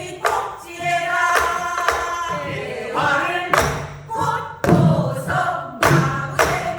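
A group of voices singing a Korean folk song together while striking buk barrel drums, sharp drum hits landing between and under the phrases.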